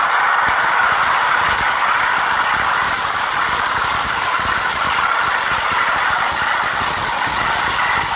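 Subway train wheels squealing against the rails as the train runs, a steady high-pitched screech over the train's running noise.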